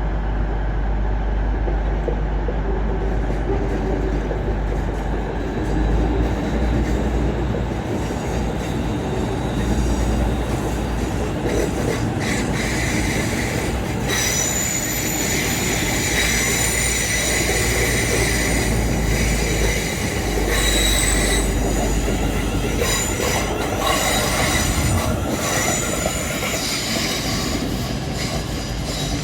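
A pair of Class 360 electric multiple units pulling out of the platform, running steadily with a high-pitched squeal from the wheels that sets in about twelve seconds in and carries on.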